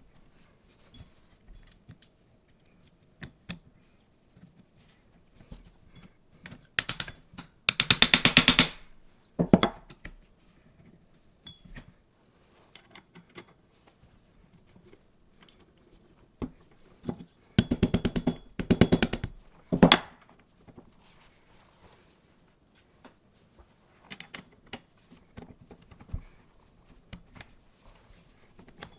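Rapid ratcheting clicks come in two bursts of a second or two each, among scattered light clinks and knocks of metal parts being handled.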